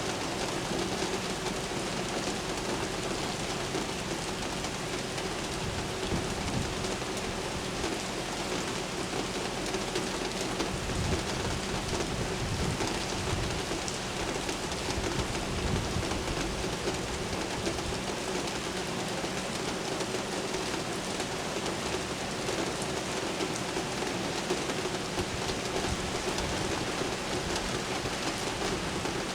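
Steady rain falling and splashing on surfaces, with a low rumble of distant thunder from about 6 to 17 seconds in. A faint steady hum runs underneath.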